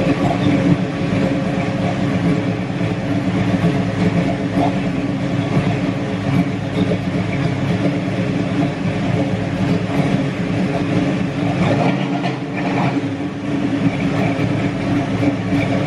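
1970 Ford Mustang Fastback's 302 small-block V8 idling steadily with a lumpy 'ra-ra-ra' beat, which the owner puts down to its performance camshaft.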